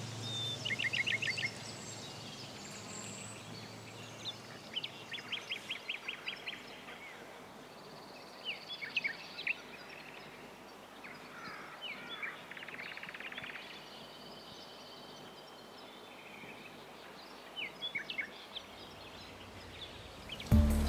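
Birds singing and calling outdoors in short trills and chirps over a steady background hiss. Music comes in loudly just before the end.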